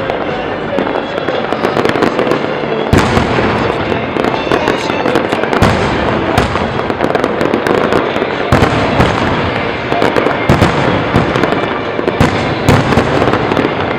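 Fireworks display going off continuously: a dense run of bangs and crackling, with especially strong shell bursts about three seconds in and again several times later.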